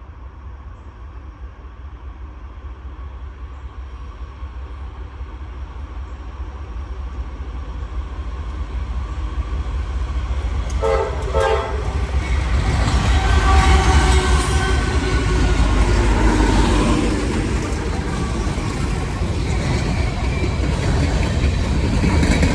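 Norfolk Southern coal train's diesel locomotives approaching, their rumble growing steadily louder. About 11 seconds in the locomotive horn sounds a short blast, then sounds again longer as the train arrives, and the engines and the rumble and clatter of the cars are at their loudest.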